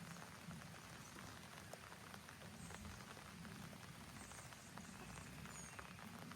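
Light rain falling, a soft steady hiss scattered with many small ticks of individual drops.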